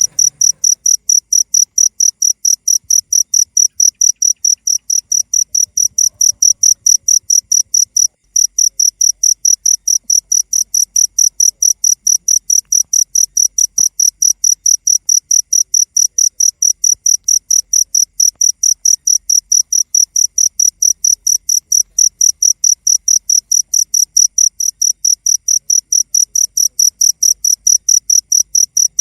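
A cricket chirping, a high-pitched, very even run of rapid chirps, several a second, that breaks off for a moment about eight seconds in.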